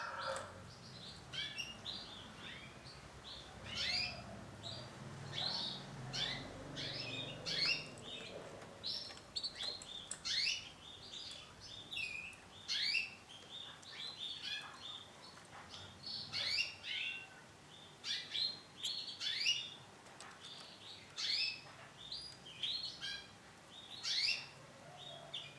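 Female canary chirping: short, sharp, downward-sweeping call notes repeated irregularly, about one or two a second, rather than a sustained song.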